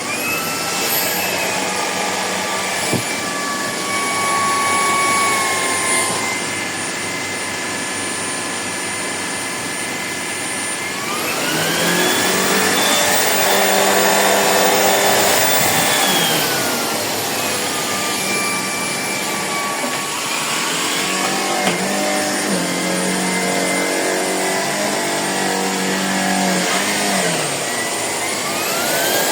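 Shark PowerDetect cordless vacuum running, its motor whine stepping up in pitch twice, about a third and two thirds of the way in, and dropping back each time as the suction ramps up and down. It starts and stops abruptly.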